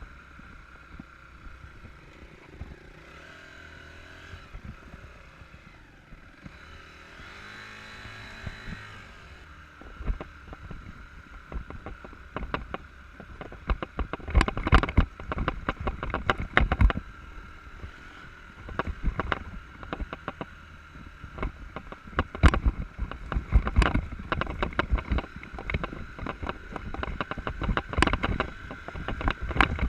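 Off-road enduro motorcycle riding heard from on board: the engine runs with its pitch rising and falling, and from about ten seconds in dense irregular knocks and bangs come from rough terrain.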